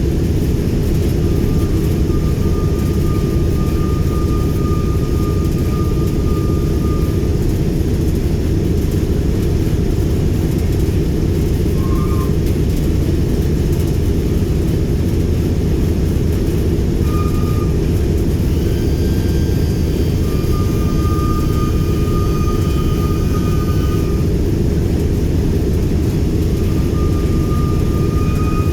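The B-17G Flying Fortress's four Wright R-1820 Cyclone radial engines running on the ground, a steady low rumble. Faint thin high tones come and go over the rumble.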